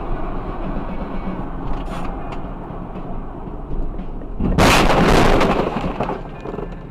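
Vehicle road noise, then about four and a half seconds in a sudden loud crash that lasts about a second before fading back to the rumble.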